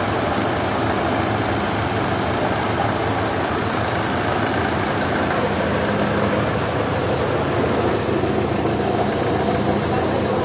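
Sawmill machinery running steadily: a continuous engine hum under a noisy rush, with no distinct knocks.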